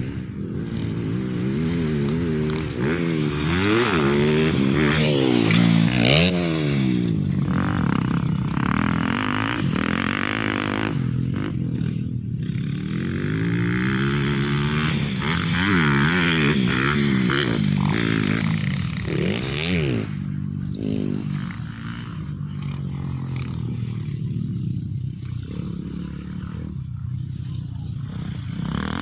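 Motorcycle engine on an off-road track, revving up and falling back again and again as the rider works the throttle and gears, with some rattling and scraping over the rough ground.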